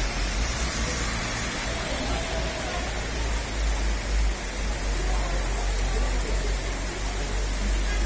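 Steady rain falling, a continuous even hiss, with a low rumble underneath.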